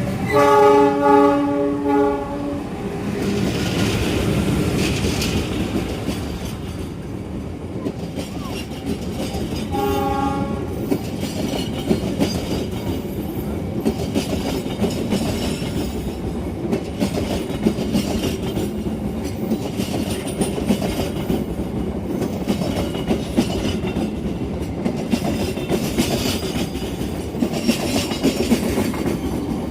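Train horn sounding for about two seconds, then a shorter blast about ten seconds in, followed by the train running past with its wheels clattering over the rail joints.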